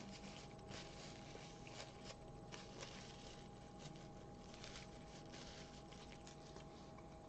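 Faint chewing of a bite of breaded chicken sandwich with bacon: irregular small crunches and mouth clicks over a steady faint hum.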